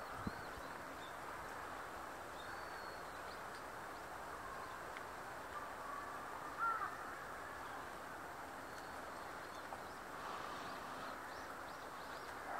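Steady outdoor background hum with faint, scattered high bird chirps, and one louder short bird call about six and a half seconds in.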